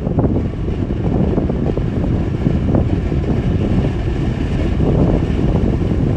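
Wind blowing across the microphone: a loud, dense low rumble that rises and falls slightly with the gusts.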